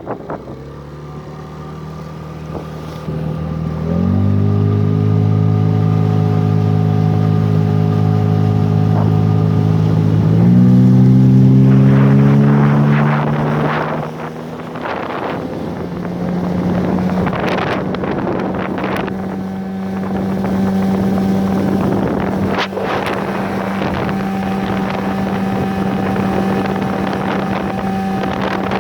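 Tohatsu 9.8 outboard motor running, its pitch stepping up twice, about four and ten seconds in, then dropping and settling into a steady drone for the second half. Wind on the microphone and scattered knocks run under it.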